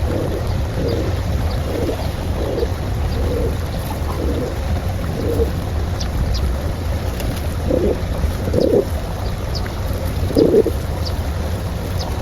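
Pigeons cooing in a series of short coos, with small birds chirping and a steady rumble of wind on the microphone.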